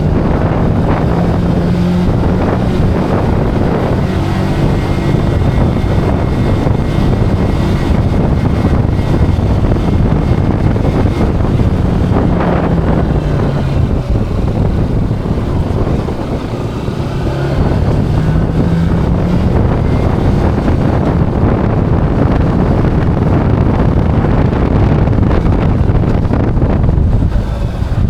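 Zontes cruiser motorcycle engine running under way, with heavy wind buffeting on the microphone. About halfway through the engine note falls as the bike slows, then rises again as it accelerates.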